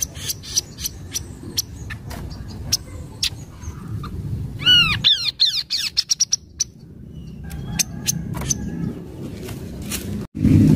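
Kaso-kaso bird calling: sharp, short chirps, with a rapid run of arching whistled notes about five seconds in, over a steady low rumble.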